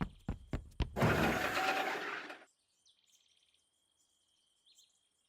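Cartoon sound effects: a few sharp clicks, then a loud noisy whoosh lasting about a second and a half that cuts off, followed by faint bird chirps in a quiet forest background.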